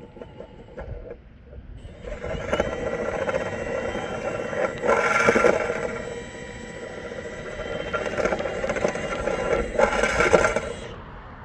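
A motor-driven vent cleaning tool running with a steady whir and scraping, starting about two seconds in, swelling louder twice and easing off near the end.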